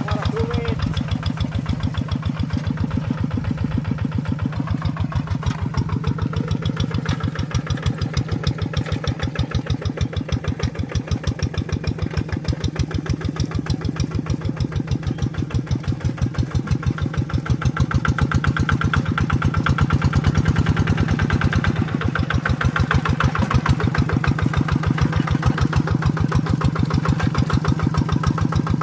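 Tractor engine running steadily with a regular, even beat of firing strokes, getting somewhat louder about two-thirds of the way through.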